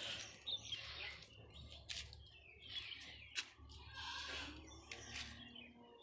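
Faint chirping of small birds, with a few sharp clicks and some rustling.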